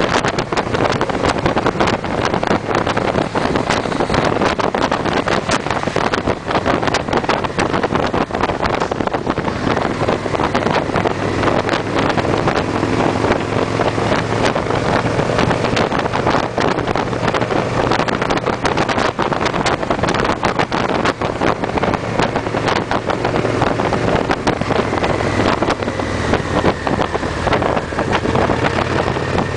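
Victory V-twin motorcycles running steadily at cruising speed in a group, with wind buffeting the microphone.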